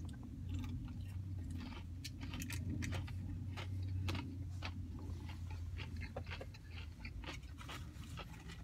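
A person chewing a mouthful of breaded boneless chicken wing, heard as many small irregular clicks, over a steady low hum.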